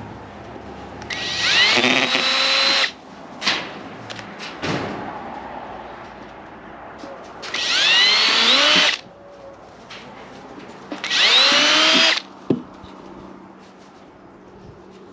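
Power drill drilling pilot holes at the marked spots for mounting the feeder's control unit: three short bursts of a second or two, each opening with a rising whine as the motor spins up. Short knocks come between the bursts.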